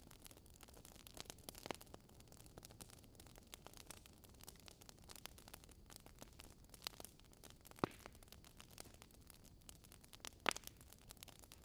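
Campfire crackling: a faint, irregular scatter of small crackles, with two louder pops, one about eight seconds in and the sharpest about ten and a half seconds in.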